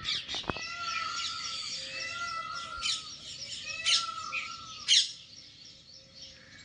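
Birds chirping: one bird repeats a short arched call about once a second while others give sharp, high chirps, the loudest about five seconds in.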